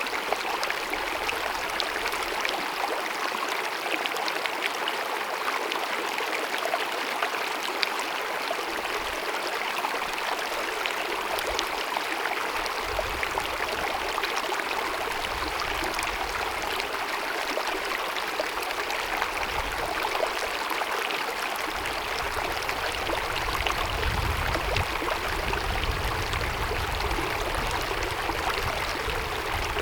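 Small mountain meadow stream babbling and gurgling over rocks in a steady rush of water, with a low rumble coming and going in the second half.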